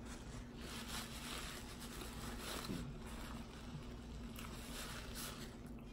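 Close-miked eating sounds: soft chewing of a mouthful of hot sausage in a bun, with a paper napkin rustling as it wipes the mouth and fingers.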